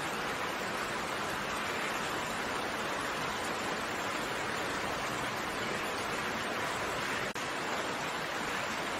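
Steady rain falling, an even hiss of raindrops without let-up, with one momentary dip in level about seven seconds in.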